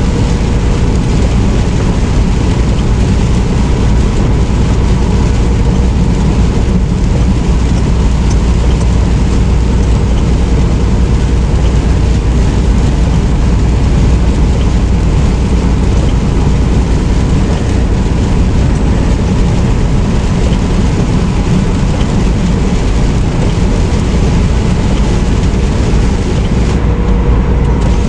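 Semi truck driving along: steady engine and road noise, even and unbroken, heavy in the low end, with a faint steady whine.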